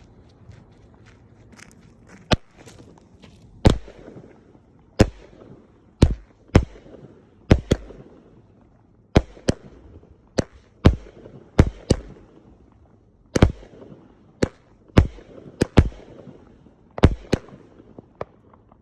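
Megabanger "Moron" firework going off as a string of about twenty loud bangs, irregularly spaced roughly a second apart, starting about two seconds in, with a short crackle after each bang.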